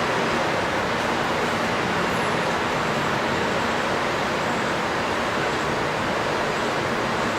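A steady, even rushing noise that does not change, with no separate events standing out.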